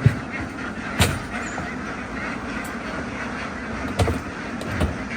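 A large flock of ducks quacking together in a dense, continuous din. A few sharp knocks cut through it, the loudest at the very start and about a second in.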